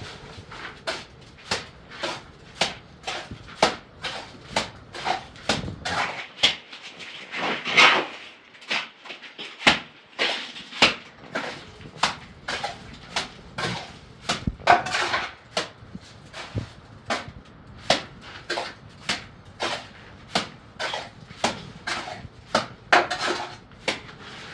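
Hammer striking repeatedly in a steady rhythm, about two sharp blows a second, with a brief pause about six seconds in.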